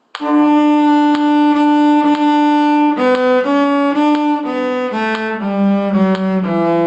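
A bowed string instrument playing a slow, single-line demonstration phrase: the same D repeated for about three seconds, then shorter notes stepping down a scale.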